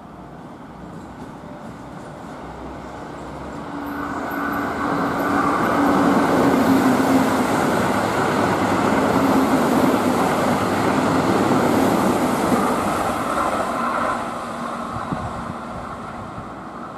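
Keihan electric commuter train running past close by. Its rumble builds over the first few seconds, stays loud with a steady whine for several seconds, then eases off near the end.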